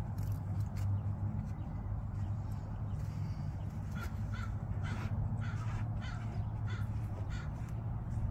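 A bird calling repeatedly, about eight short calls in a run starting about four seconds in, over a steady low hum.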